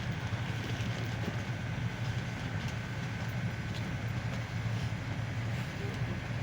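Cabin noise inside a GAZelle Next minibus: a steady engine and road drone, with a faint steady high whine above it.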